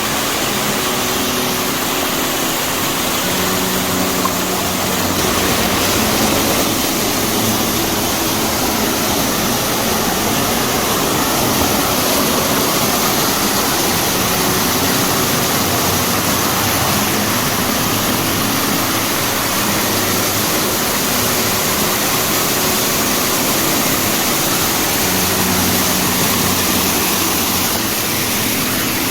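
Mountain stream rushing and falling over rocks in a steady loud rush of water.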